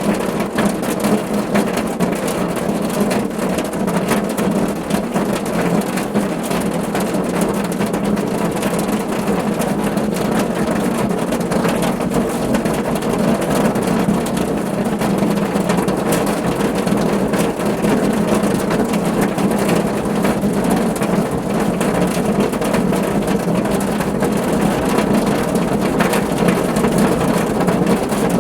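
Steady rain falling on a car roof: a dense, even patter of drops over a constant low hum of water noise.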